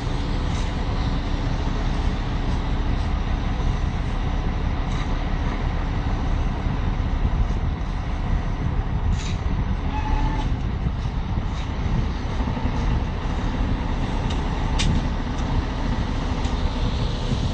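Street noise dominated by heavy vehicles: a steady, low truck-engine rumble with traffic, and a few short clicks.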